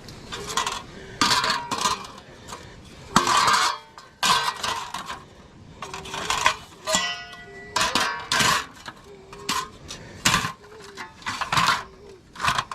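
Metal cookware and utensils clattering and clinking in a string of sharp knocks, with a short ringing tone about two thirds of the way through.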